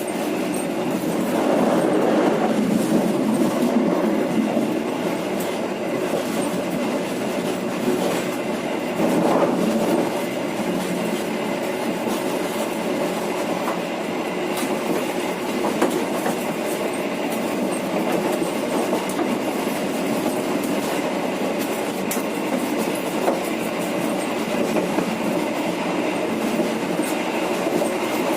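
Penataran passenger train running along the track: a steady rumble with a few held tones and occasional faint clicks from the wheels on the rails.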